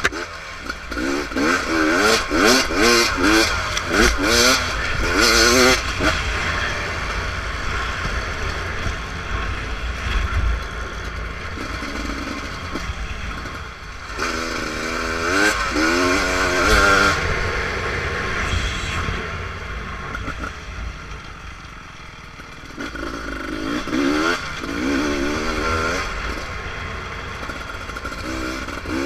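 Beta RR300 single-cylinder two-stroke dirt bike engine revving up and down in repeated bursts during trail riding, easing off into quieter stretches in between.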